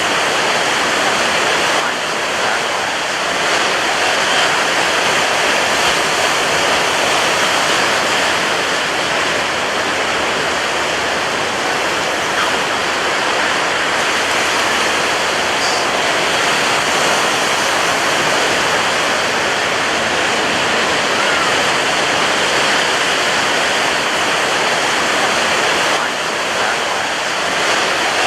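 Ocean waves breaking on a beach: a steady, dense wash of surf with hardly any rise and fall between individual waves.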